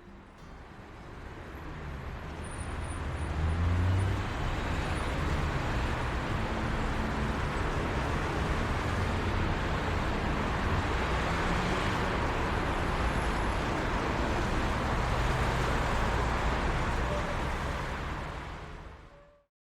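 Road-traffic ambience: a steady rush of passing traffic that fades in over the first few seconds, holds, and fades away near the end, with faint low hums underneath.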